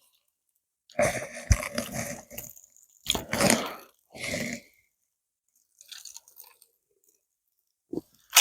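A person chewing and eating close to the microphone, in several separate bursts of mouth noise with short pauses between.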